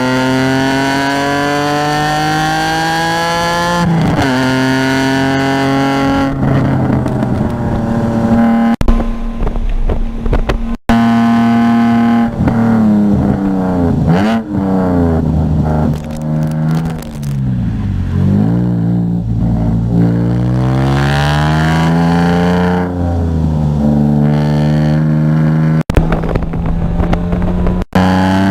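Car engine being driven hard on track. Its pitch climbs and drops sharply at an upshift about four seconds in, falls in steps through downshifts in the middle, then climbs again under acceleration. It cuts out for a split second three times.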